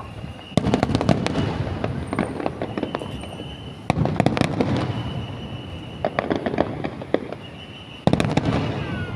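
Fireworks shells bursting in three volleys, about three to four seconds apart. Each volley is a cluster of sharp cracks and bangs followed by a fading rumble.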